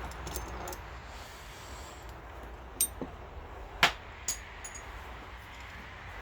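Four sharp metallic clicks and knocks of transmission parts being handled, the loudest a little before the middle, over a low steady hum.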